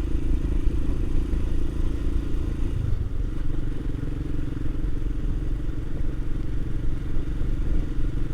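Royal Enfield Himalayan's single-cylinder engine running steadily while riding, its note dropping slightly about three seconds in.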